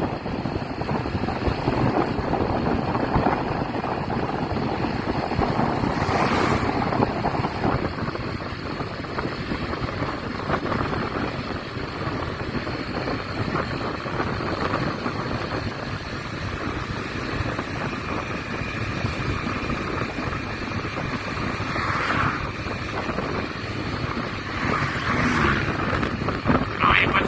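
Wind buffeting the microphone during a motorcycle ride, with a steady rush of road and engine noise underneath.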